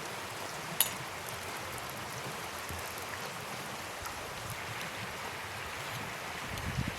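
Steady rushing of a river flowing past, with a single sharp crack a little under a second in.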